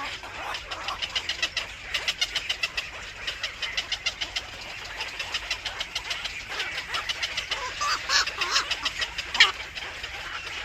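Small birds chirping in a rapid, steady series, about five short high chirps a second. A few louder calls come in near the end.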